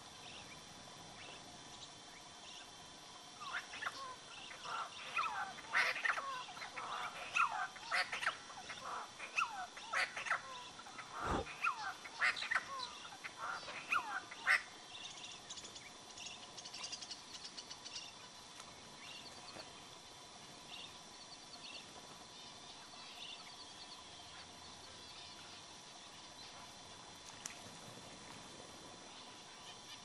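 Several birds calling: a dense run of short, rapid, sweeping calls for about ten seconds from a few seconds in, then quieter high-pitched chattering that fades out past the middle. A single dull thump about a third of the way through.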